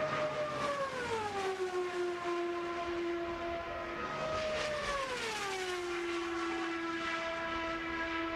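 Indy car's turbocharged V8 at full throttle passing by at high speed, its pitch dropping steeply as it goes past. About four seconds in the note is high again and drops a second time with another pass, then holds a steady lower drone.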